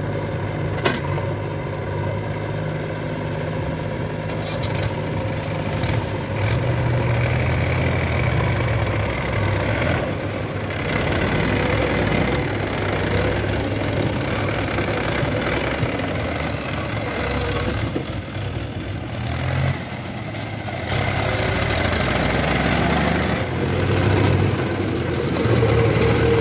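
Diesel engines of a JCB 3DX backhoe loader and tractors running, the engine note rising and falling in load as the loader works. There is a sharp click about a second in.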